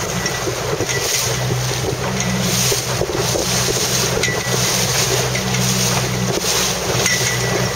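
Wind buffeting the microphone over the rush of water on a boat, with a steady low hum underneath through most of it.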